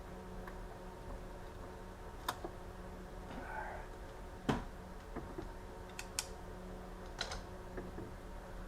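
A handful of sharp, irregular clicks and taps, the loudest about halfway through, over a steady low hum.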